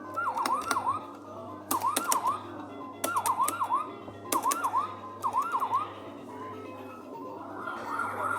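Falgas fire truck kiddie ride giving out an electronic chirping sound effect: five short bursts of two or three quick dipping-and-rising chirps, about a second apart, each opening with a sharp click, over a steady low hum.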